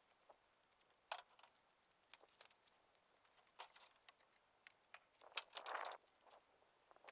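Near silence, broken by a few faint scattered clicks and light knocks and a brief soft rustle near the end.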